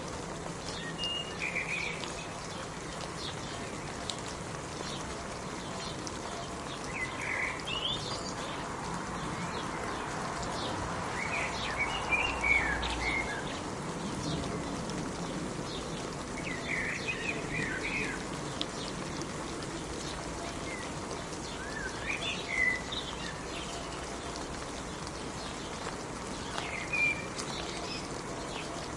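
Steady rain falling, with a bird chirping in short bursts every few seconds.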